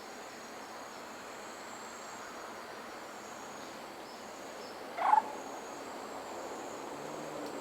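Tropical forest ambience: insects keep up a steady high-pitched drone and trill, and a short, loud call from an animal sounds once about five seconds in.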